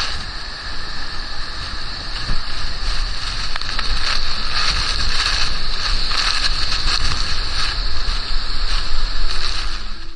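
Large waterfall pouring into its plunge pool: a loud, steady roar of falling water and spray, with a low rumble of wind on the microphone.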